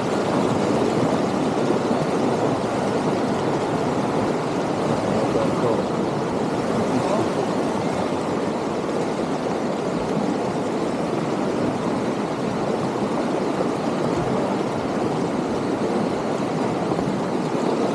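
Steady, even rush of whitewater rapids on a river running at about 12 cubic metres a second.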